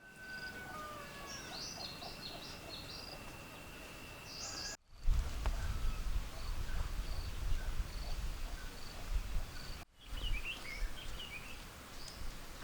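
Birds chirping and calling over outdoor background noise, with short evenly repeated high chirps. The sound cuts out abruptly twice, about five and ten seconds in, and from the first cut a low rumble runs underneath.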